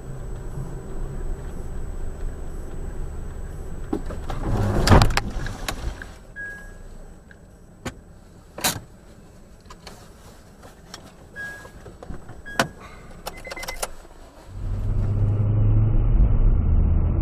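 Car road and engine noise recorded from inside a moving car, with a loud bang about five seconds in. Sharp clicks and a few short beeps follow. Near the end the sound switches abruptly to a louder, duller engine and road rumble from another recording.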